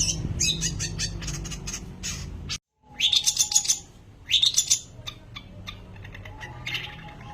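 Long-tailed shrike singing: a fast run of high chirping notes, a brief dropout about two and a half seconds in, then two loud phrases of sharp notes followed by softer, quick ticking notes. A steady low hum runs underneath.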